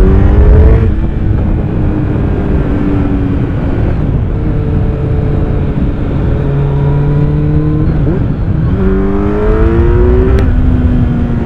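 Kawasaki Z900's inline-four through an Akrapovic exhaust, ridden and accelerating. The engine note climbs and drops as it shifts up, runs fairly steady for several seconds, then climbs again near the end, with a sharp click as the next gear goes in. Wind rumble on the onboard mic runs underneath.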